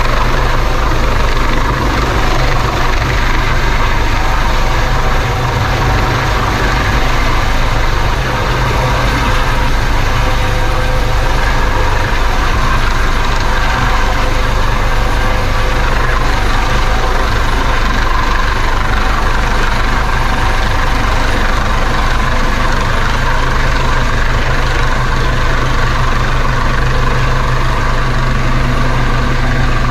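Helicopter running steadily and loud, its rotor and engine making a constant deep drone with a higher steady whine.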